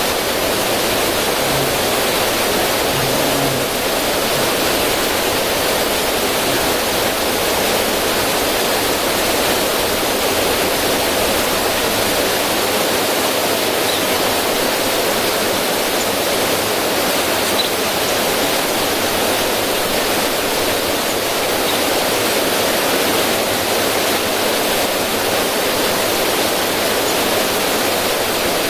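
River current running over rocks and splashing down a small cascade: a steady, unbroken rushing of water.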